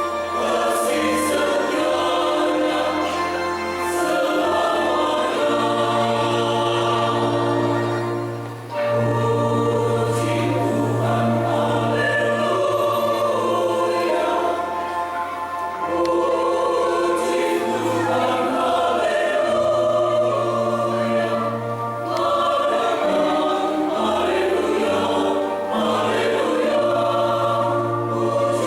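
Church choir singing a hymn in several voices, with low notes held for several seconds beneath and short breaths between phrases.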